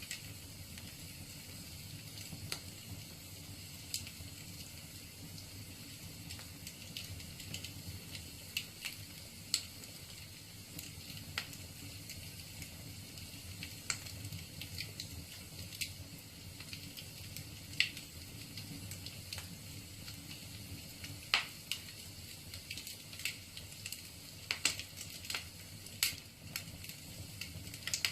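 Wood fire crackling in a fireplace: a steady hiss of the flames with irregular sharp pops from the burning logs, several louder ones in the second half.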